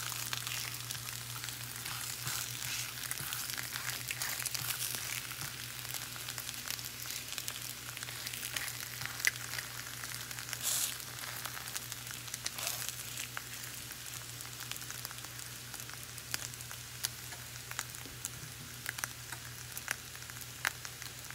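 Bologna slices frying in canola oil in a nonstick skillet: a steady sizzle with frequent pops and crackles, which thin out and ease a little over the second half. The meat is well browned and crisping at the edges.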